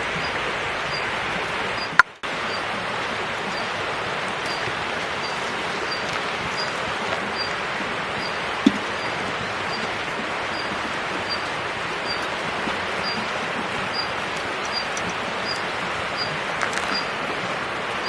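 Steady rush of flowing river water, with a short high chirp repeating about every two-thirds of a second over it, and a brief break about two seconds in.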